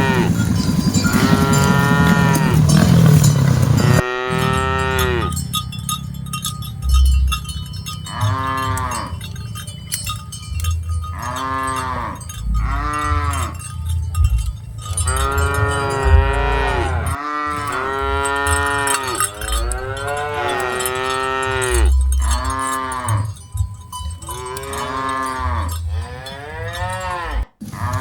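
A herd of cattle mooing again and again, many calls overlapping. Each moo rises and then falls in pitch.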